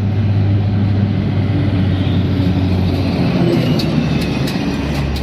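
Motor vehicle engine running with a steady low hum. The pitch drops near the end as the engine speed changes.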